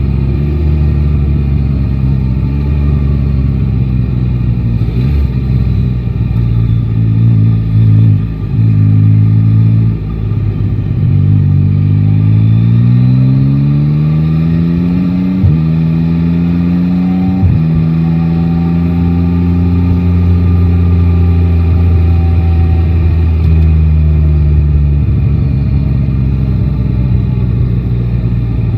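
Yamaha Tracer 9 GT's 890 cc inline-three engine on the move in city traffic: running at low revs for the first several seconds, then accelerating with rising pitch from about eleven seconds in, with two upshifts that drop the pitch suddenly, before settling into steady cruising.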